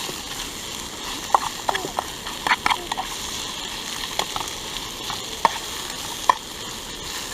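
Sausage and onion frying in a pan, a steady sizzle with scattered sharp pops and clicks.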